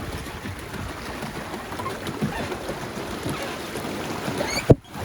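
Pedal boat moving on the water: a steady churning of water from the paddle wheel with rumble on the microphone, and one loud knock near the end.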